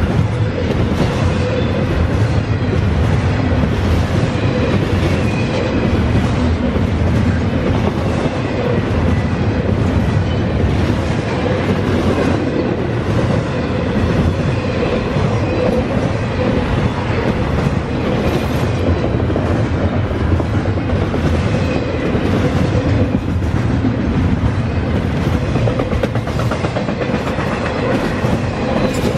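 Norfolk Southern double-stack intermodal freight cars rolling past: a steady, loud rumble of steel wheels on rail, with a regular clickety-clack of wheels over rail joints.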